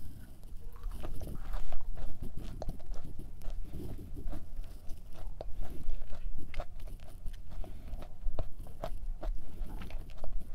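A bite into a thick, soft-baked cookie, then chewing with many small crunchy crackles and clicks.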